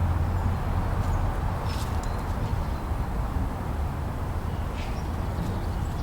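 Steady blizzard wind, a low rumbling rush with no breaks, with a few faint high chirps about two and five seconds in.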